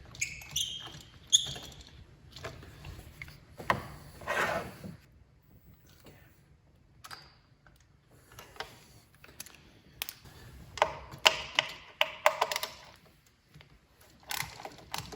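Scattered clicks and knocks of a socket wrench and metal parts while bracket bolts are worked loose in an engine bay, with a longer scraping sound about four seconds in and a quick run of clicks near the end.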